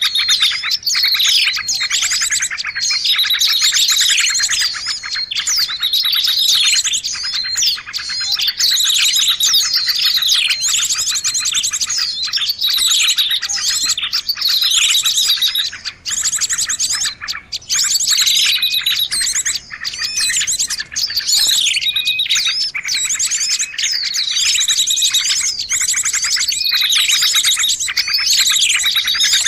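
A dense, noisy chorus of many small birds chirping and calling at once, with fast trills and quick falling notes overlapping without a break. It is a bird-lure (pikat) recording meant to draw in birds of every kind.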